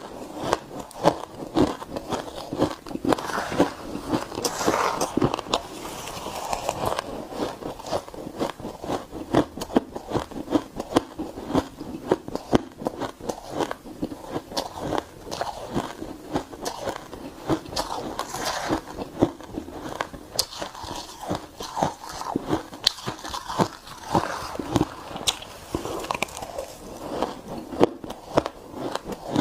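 Close-up chewing of shaved, refrozen ice: rapid, irregular crunching and crackling as the ice is bitten and ground between the teeth.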